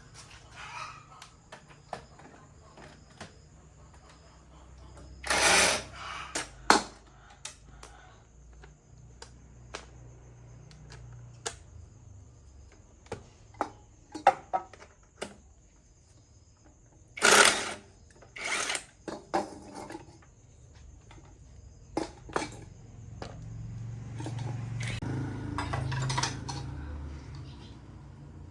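Workshop clatter of tools and metal parts being handled: scattered sharp clicks and knocks, with two louder, half-second noisy bursts about five and seventeen seconds in, and a low hum swelling near the end.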